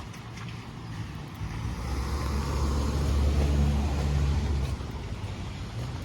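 A car driving past on a wet road: engine rumble and tyre hiss swell up and fade away over a few seconds, loudest about halfway through.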